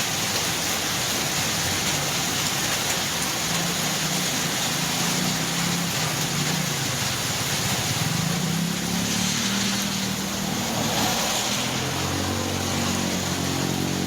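Steady hiss of heavy rain, with a low engine hum underneath that wavers in pitch and grows a little stronger near the end.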